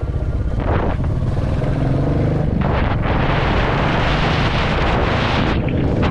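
Royal Enfield Classic 350 single-cylinder engine running steadily while riding, with a rush of wind noise on the microphone that swells from about three seconds in to near the end.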